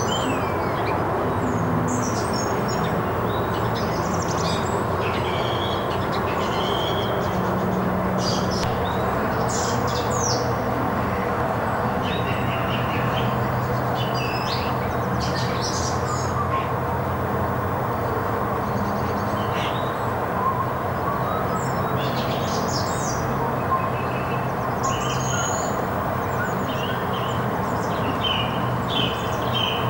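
Songbirds chirping and trilling in short, scattered phrases over a steady hiss and low hum.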